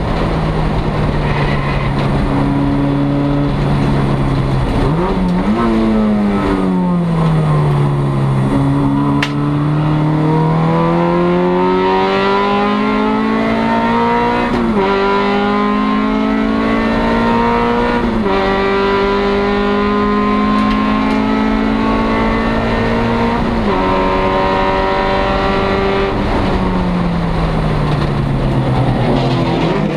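Four-cylinder engine of a 1996 Acura Integra race car, heard from inside its stripped cabin at racing pace. About five seconds in the pitch falls as the car slows and gears down. It then climbs through the gears, with two sudden drops at the upshifts, holds fairly steady, and falls again near the end.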